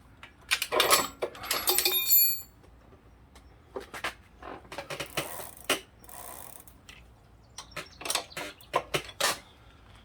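Metal tool clanks and clicks, with a short metallic ring in the first couple of seconds and scattered clicks after, as a stuck pedal spindle is worked out of the crank arm; the pedal is coming off hard, which the mechanic guesses means damaged threads.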